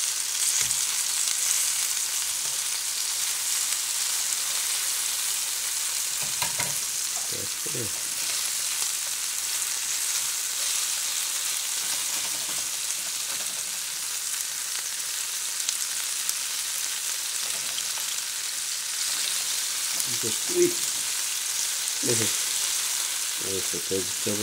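Spicy seasoned chicken pieces and sliced onion sizzling steadily in hot oil in a frying pan, with a few short sharper sounds from the pan being worked about a third of the way in and near the end.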